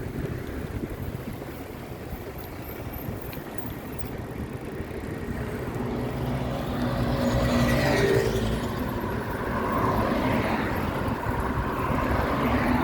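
A motor vehicle passing close by on the road, getting louder to a peak about eight seconds in and then fading, over a steady low rumble of wind and road noise.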